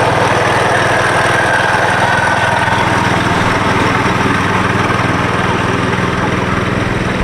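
Small gasoline engine of a ride-on vehicle running steadily at an even speed, growing slightly fainter toward the end.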